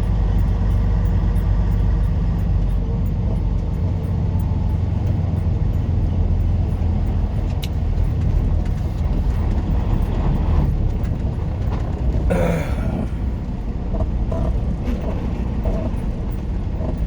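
Semi-truck diesel engine running at low speed inside the cab, a steady low rumble, with a faint regular ticking throughout. About twelve seconds in comes a short loud burst of hiss, typical of air-brake air being released.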